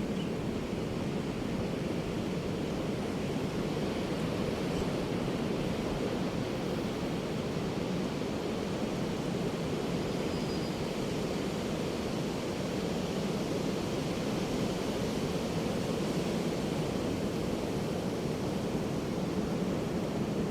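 Ocean surf washing in continuously, an even rush of water with no distinct separate wave breaks.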